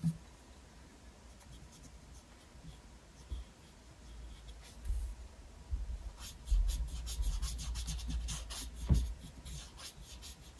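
Paintbrush scrubbing acrylic paint onto a canvas in short, rough strokes, sparse at first and busier from about halfway, with a few low thumps of the canvas or table being bumped.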